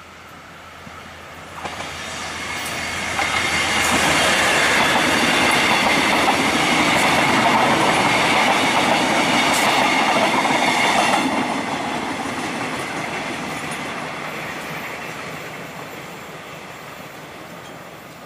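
KA Bandara YIA airport multiple-unit train passing close by, its wheels and rail joints on the track building up to loudest for several seconds. About eleven seconds in the sound cuts off abruptly, and a quieter, steadier train rumble follows and slowly fades.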